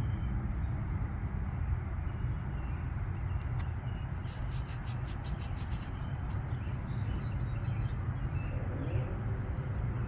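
A steady low engine-like rumble, with a quick run of sharp high chirps about four seconds in and a few more short chirps a little later.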